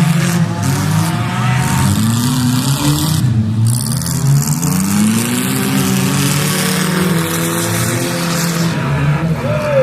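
Several race car engines running hard together, their pitch rising and falling over and over as the cars accelerate and let off around the track.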